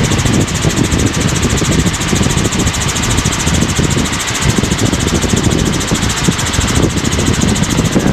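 Helicopter in cruise flight, its engine and rotor noise heard from inside the cabin as a steady, loud drone.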